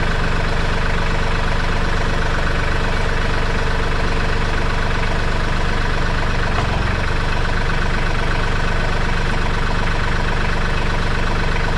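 Tractor engine idling steadily, with a brief low thump a little past the middle as an implement is being hooked up.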